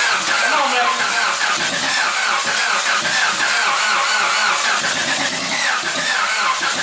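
Starter motor cranking a freshly rebuilt Honda four-cylinder engine over at length in an even, rhythmic pulse without it catching, hard enough that the starter ends up overheating and smoking.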